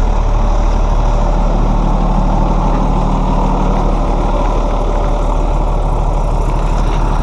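2008 Hino 338 box truck's inline-six diesel engine idling steadily, running smoothly.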